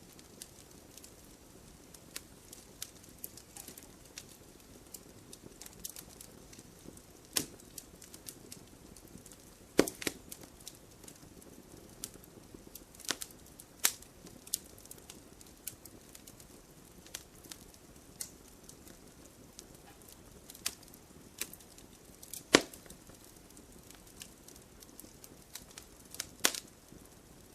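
Wood fire burning in a fireplace, crackling with irregular sharp pops over a faint steady hiss. A few pops stand out, the loudest about ten seconds in and again about twenty-two seconds in.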